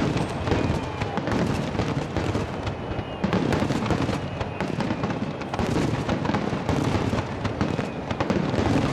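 Starmine fireworks barrage: many shells bursting in quick succession, a dense unbroken run of booms and crackles.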